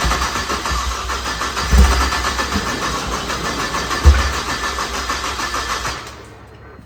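Built BMW N54 twin-turbo straight-six cranking and running on its first start-up, rough and loud with two heavy low thumps. The engine sound stops about six seconds in.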